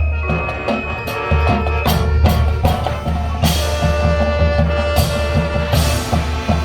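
High school marching band playing: brass holding sustained chords over the drumline, with a heavy bass drum pulse and several cymbal crashes.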